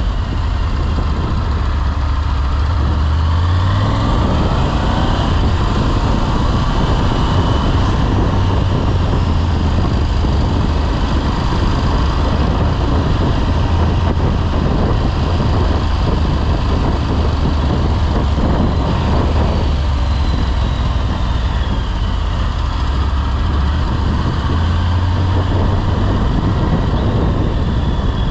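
Motorcycle engine running under way, rising in pitch about four seconds in as it accelerates, over a steady rush of wind and road noise.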